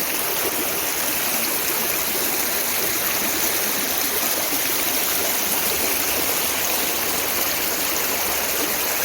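River water rushing steadily, a loud, even wash of water noise.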